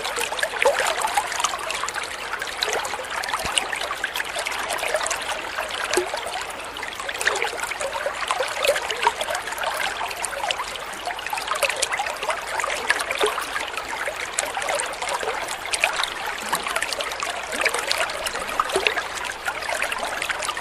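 Water trickling and splashing steadily over stones, a continuous burbling stream sound made of many small splashes.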